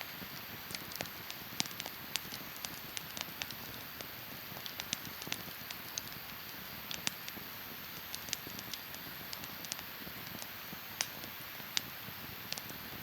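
Wood fire crackling in a fire pit: irregular sharp pops and snaps, several a second, over a steady hiss.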